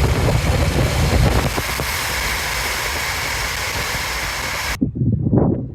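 A steady rush of wind and road noise with a low rumble. It cuts off abruptly about five seconds in, giving way to uneven gusts of wind buffeting the microphone.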